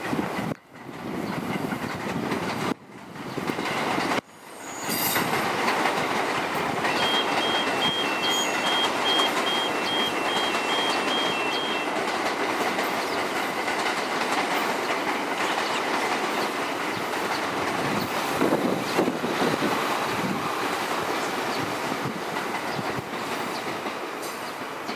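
JR commuter train running on the rails, a loud steady rumble and rattle of wheels and cars. The sound drops out briefly three times in the first few seconds. A faint high two-tone pulsing is heard for a few seconds early on.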